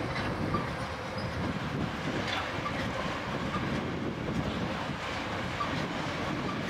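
South Western Railway Desiro electric multiple-unit train passing at speed: a steady rumble of wheels on the rails, with occasional clicks as the wheels cross rail joints.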